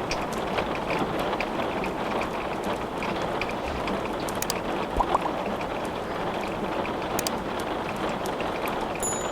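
Steady rain with wood crackling in a fireplace: an even hiss of rainfall under scattered sharp pops and snaps from the burning logs.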